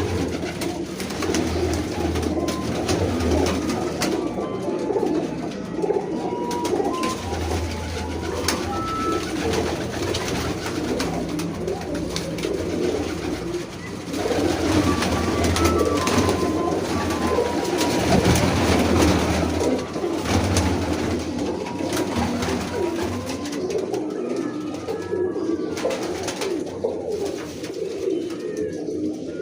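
A group of pigeons cooing together, many overlapping coos forming a continuous murmur, with a short click now and then.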